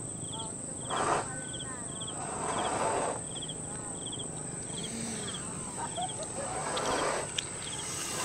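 A cricket chirping steadily, about two short high chirps a second, over a steady high-pitched whine and a few soft swells of background noise.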